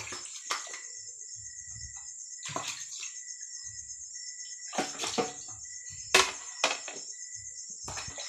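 Dishes being washed by hand at a sink: irregular clinks and splashes of dishes and utensils in water, the sharpest one about six seconds in.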